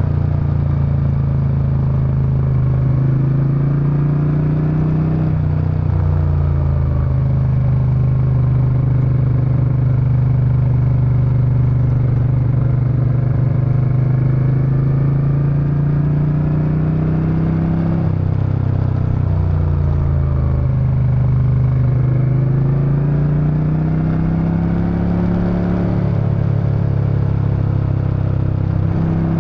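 Suzuki Intruder VS800's 45-degree V-twin engine and exhaust while riding. The engine note climbs steadily and then drops back sharply several times as the bike pulls through gear changes and eases off the throttle.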